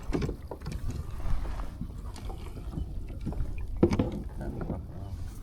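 Wind rumbling on the microphone over a kayak on the water, with scattered small knocks and handling noises and a sharper knock about four seconds in.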